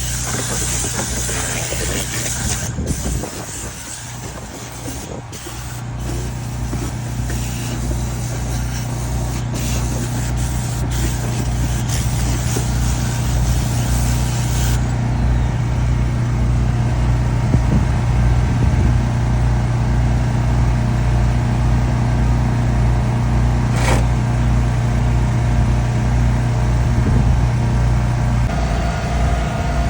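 Air compressor running steadily with a low, evenly pulsing hum. A hiss of blown air in the first few seconds drops away, and the hum changes pitch near the end.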